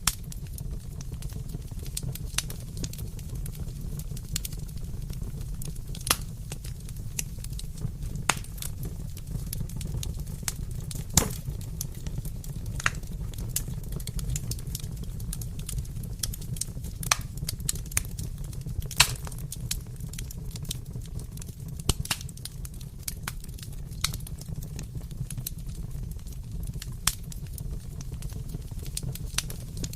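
Fireplace fire crackling, with irregular sharp pops scattered over a steady low rumble.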